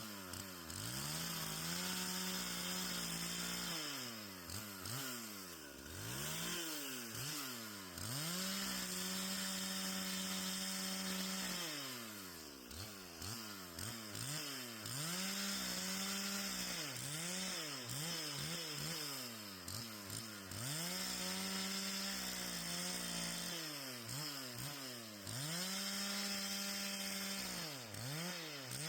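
Two-stroke chainsaw cutting fallen trees into firewood lengths, revving up to full speed and holding it for a few seconds, then dropping back toward idle, about six times over.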